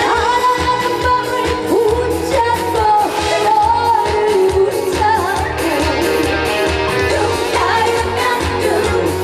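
A female trot singer singing live over a band accompaniment with a steady beat, the voice holding long notes with vibrato.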